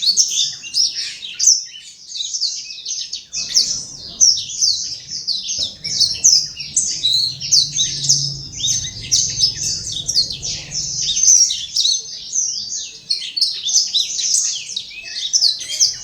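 Blackthroat (black-throated canary) singing a long, fast, unbroken twittering song of rapid high warbled notes. This is the full, constant song that bird keepers call "gacor". A faint low hum sits under the song near the middle.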